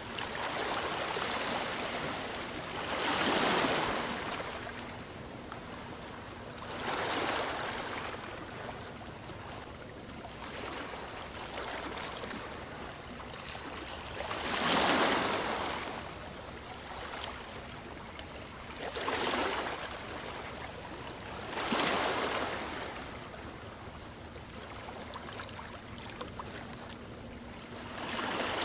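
Sea waves breaking and washing on the shore: the surf swells up and falls away about six times, a few seconds apart, over a steady wash of water.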